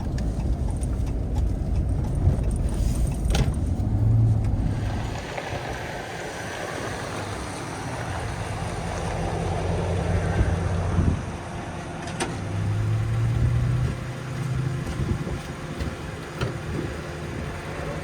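Truck driving on the road: steady engine and road noise, with the engine's hum rising and fading a few times.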